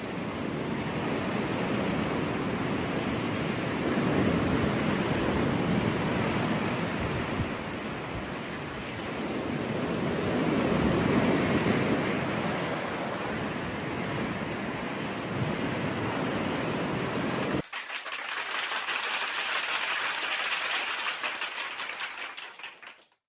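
Ocean surf washing on a beach, a steady rush that swells and eases every few seconds. About 17 seconds in it cuts abruptly to a thinner, higher hiss that fades out near the end.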